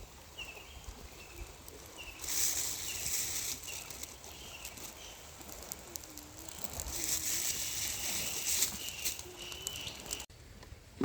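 Outdoor ambience with a small bird chirping over and over, a short high note about twice a second, and two spells of hissing noise. The sound cuts off abruptly near the end.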